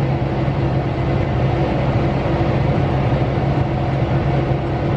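Tractor engine running steadily under load, a constant low drone heard from inside the cab while pulling the grain cart.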